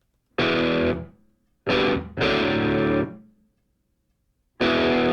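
Distorted electric guitar chords struck in four short stabs, the third held for about a second, with silence between them.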